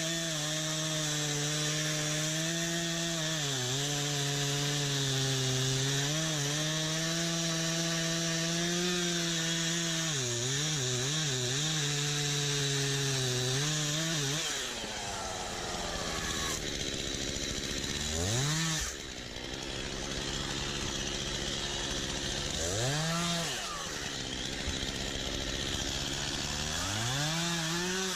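Stihl MS251 C two-stroke chainsaw held at full throttle through a cut in pine for about fourteen seconds, its pitch sagging a few times as the chain loads up. Then the saw drops back and is revved up and let down several times.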